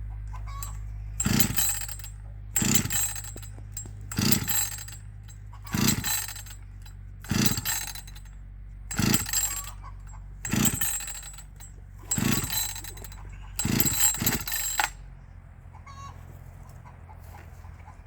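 Husqvarna 555 chainsaw being pull-started: about nine quick pulls on the recoil starter, one every second and a half, each with a brief rasp as the engine turns over but does not catch. The saw is warm, with the decompression valve open and the primer bulb pushed.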